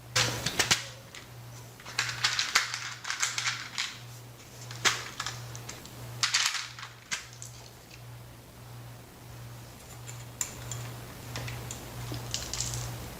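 Scratchy clicking and rustling as electrical wires are handled and twisted together with wire connectors, in irregular bursts.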